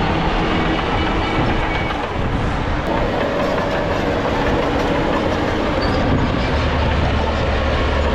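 Crawler bulldozer working: diesel engine running under load with the clanking rattle of its steel tracks. A deeper engine drone comes in about six and a half seconds in.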